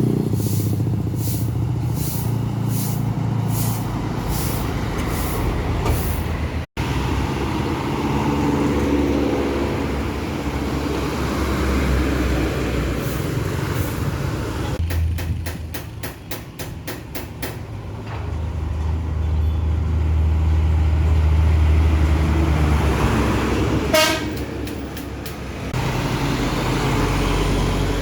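Heavily loaded trucks' engines running and pulling under load, with a horn toot near the end.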